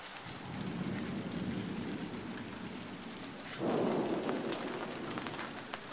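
Thunder rumbling low and long, with a louder roll about three and a half seconds in that fades away.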